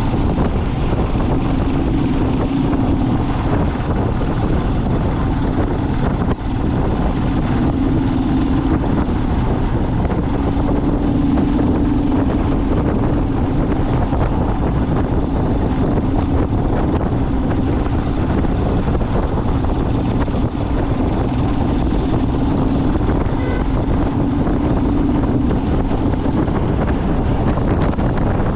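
A vehicle on the move: a steady engine drone that swells and eases every few seconds, under heavy wind and road noise on the microphone.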